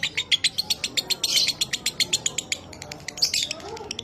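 Lovebird chattering in a long fast trill of sharp, high notes, about ten a second (the 'ngekek' song), broken by two harsher scratchy calls.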